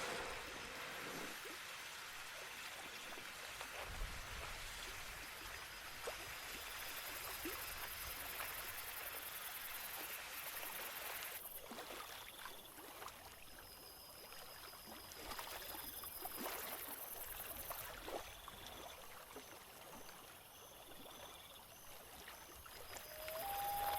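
Water lapping and trickling, with scattered small splashes.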